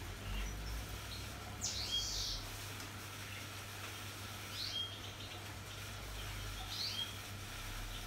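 Three short, high bird-like chirps, about two and a half seconds apart, over the low steady hum of a Hotpoint Ariston Aqualtis washing machine taking in water during its test programme.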